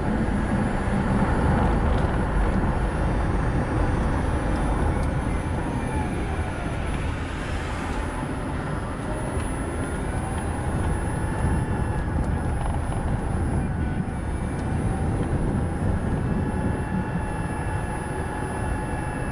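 Nissan Note e-POWER driving on a road: steady tyre and road noise, with faint whining tones that slowly glide up and down in pitch.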